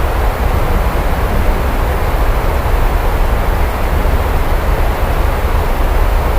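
Steady heavy rain, an even hiss with a deep, constant low rumble underneath.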